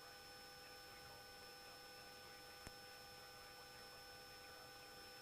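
Near silence between radio transmissions: a faint steady electrical whine in the audio feed, with one faint click about two and a half seconds in.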